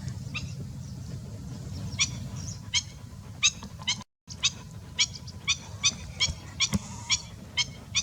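A young bird giving short, high-pitched cheeps over and over, about two a second, starting about two seconds in. A low rumble sits under the first two seconds, and the sound drops out for a moment near the middle.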